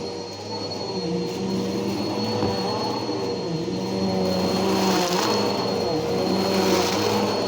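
Bissell PowerForce Helix upright vacuum cleaner running steadily with a constant motor whine, vacuuming sawdust, wood shavings and chicken bedding. A brighter hiss swells twice, about five and seven seconds in.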